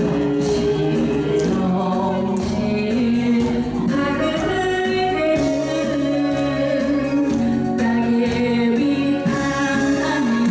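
A woman singing a trot song over instrumental accompaniment.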